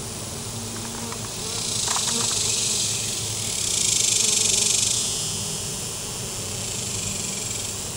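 Honey bees buzzing around open comb, a steady low hum. Twice a rushing hiss swells up and fades over it, the second one louder.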